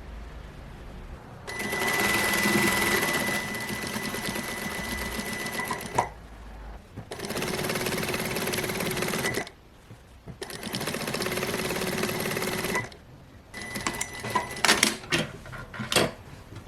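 Sewing machine stitching in three runs of a few seconds each with short pauses between, followed by a series of sharp clicks and knocks near the end.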